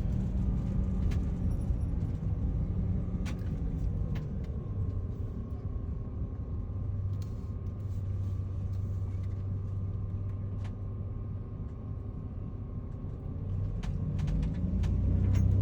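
Van engine running at low speed with road rumble, heard from inside the cab. The engine note drops after a couple of seconds and rises again near the end, with a few faint ticks scattered through.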